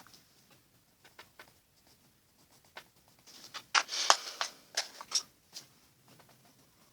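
Colored pencil scratching on paper in short strokes: a few light ticks, then a burst of quick, louder strokes a little past the middle, followed by several single strokes.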